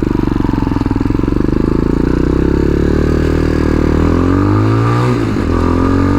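Tao Tao TBR7 dual-sport motorcycle's single-cylinder engine under way. It runs steadily, then rises in pitch as it accelerates from about four seconds in, with a brief break in the note just after five seconds as it shifts gear.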